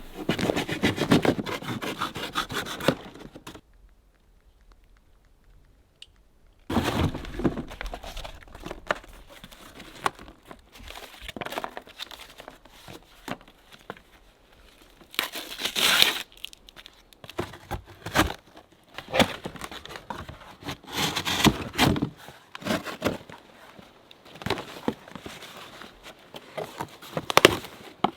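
Scrap cardboard being cut with a knife, torn and crumpled in uneven bursts, with a quiet pause of a few seconds near the start.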